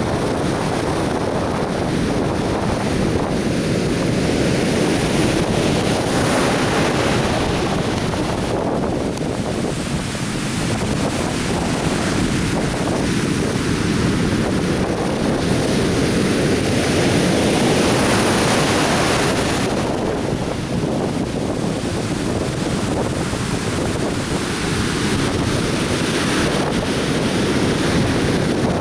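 Atlantic surf breaking on a beach: a continuous wash of waves that swells into a louder hiss twice, once about five seconds in and again for several seconds around the middle. Wind rumbles on the microphone underneath.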